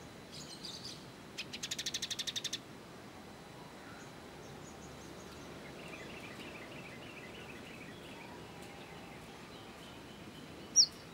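Small songbirds calling: a burst of high chirps, then a rapid chattering run of about a dozen sharp notes, fainter twittering, and one loud sharp chirp near the end.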